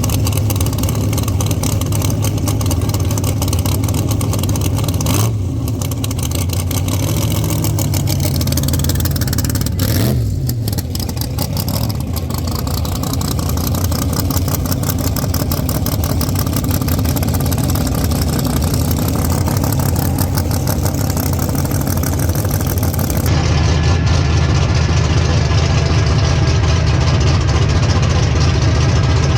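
Drag race car engine running loudly at a lumpy idle, heard from the onboard camera, with a brief rev that rises and falls about ten seconds in. The sound changes abruptly about 23 seconds in to a heavier, duller engine note.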